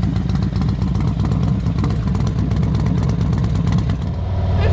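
Harley-Davidson Road King Special's V-twin engine running with a loud, uneven rumble. About four seconds in it settles into a steadier hum.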